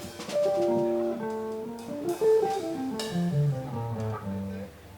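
Jazz guitar playing a phrase of single notes and chords that runs down into a low descending line, then breaks off shortly before the end.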